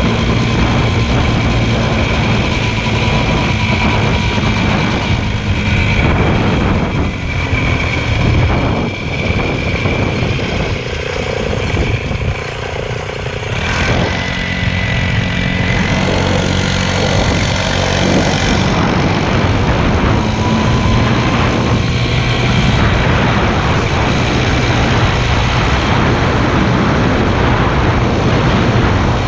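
Motorcycle engine running steadily, with a shift in pitch and a brief dip in loudness about halfway through.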